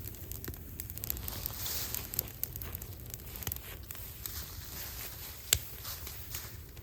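Scrap-wood fire in an incinerator crackling, with irregular snaps and one sharp, loud pop about five and a half seconds in.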